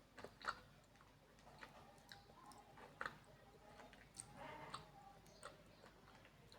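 Faint, scattered crunches and clicks of Multani mitti (fuller's earth clay) being bitten and chewed.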